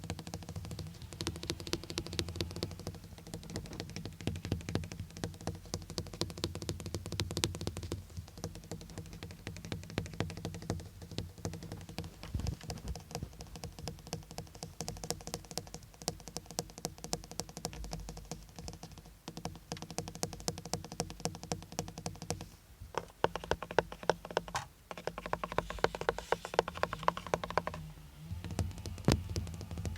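Fast, dense tapping on a car's surfaces, a rapid patter of light taps like quick typing, over a steady low hum. It grows louder in the last third.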